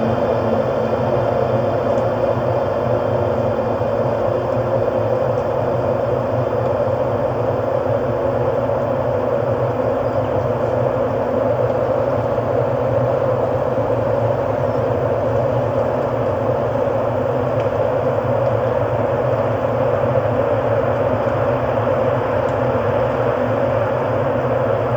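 Ambient drone music: a steady, dense sustained pad with held tones and no beat.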